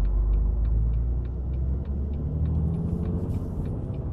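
Volvo FH16 750's 16-litre straight-six diesel pulling at full throttle from a standing start with about 42 tonnes behind it, heard from inside the cab; the engine note climbs as the revs rise in the second half. Faint regular ticking sounds over it, about three ticks a second.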